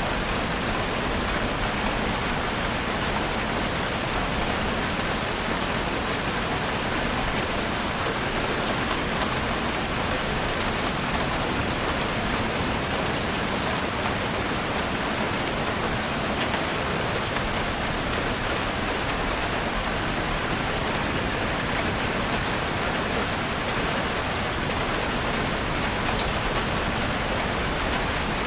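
Heavy rain falling steadily on a roof: a dense, even hiss of rain with many small drop ticks, unchanging throughout.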